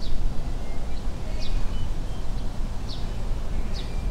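A bird calling repeatedly: about four short, high, falling notes, roughly a second and a half apart, with a few fainter short notes between. Under them runs a steady low rumble on the microphone.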